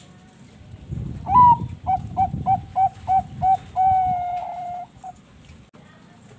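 Zebra dove (Bangkok perkutut) cooing: a rising opening note, then a quick run of about seven short coos at about three a second, ending in one long held note.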